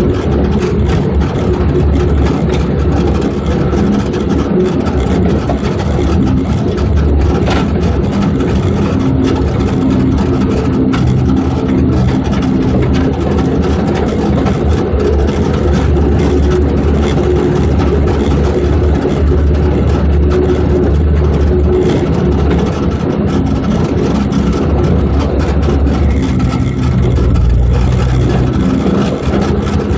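Suzuki Samurai's engine running steadily as the rig drives along a gravel trail, with tyre and wind noise over it. The engine note shifts near the end.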